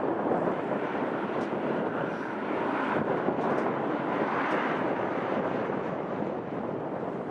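Airliner engines running as a steady, broad roar that swells slightly midway.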